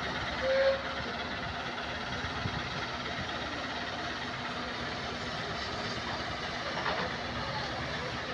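Rail shunting engine running steadily with a low hum while moving wagons. A short, single-pitched tone sounds about half a second in.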